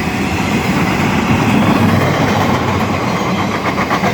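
Freight train passing close by at speed, wheels running loud on the rails under a steady low diesel hum. A quick, regular clickety-clack of wheels over rail joints comes in near the end.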